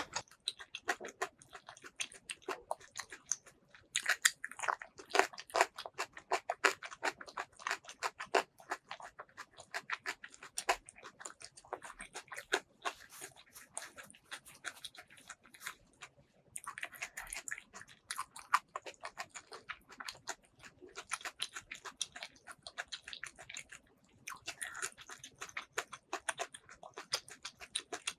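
Close-miked chewing of food: a steady run of small wet mouth clicks and crunches, broken by short pauses about four seconds in, around sixteen seconds and near twenty-four seconds.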